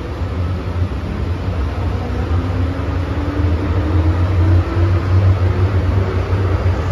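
MTR M-train running, with a steady low rumble and a faint whine from the traction motors that rises slowly in pitch as the train gathers speed.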